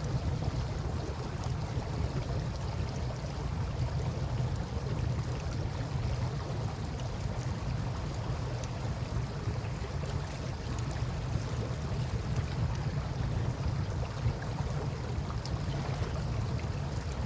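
Steady wash of river water with a low rumble under it, and the scattered small pops of a wood campfire crackling; one louder pop about fourteen seconds in.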